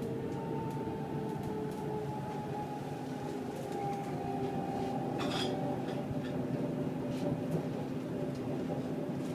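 Passenger train running along the track, heard from inside the carriage: a steady rumble with a faint motor whine that falls slightly in pitch, small clicks and rattles, and a brief louder rattle about five seconds in.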